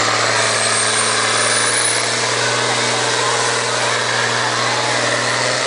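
Tractor engine running steadily and loudly at a tractor pull. A thin high whine rises over the first two seconds.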